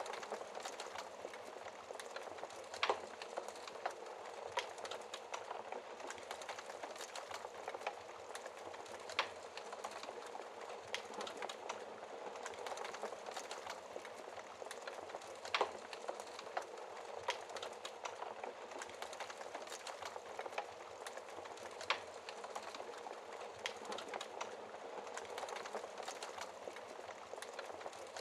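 Wood fire burning in a fireplace: a steady low hiss of flames with constant small crackles and an occasional louder pop, several through the stretch.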